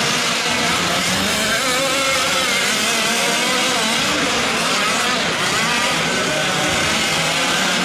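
Several 1/5-scale gas RC trucks racing, their small two-stroke engines buzzing over one another, each rising and falling in pitch as throttles open and close.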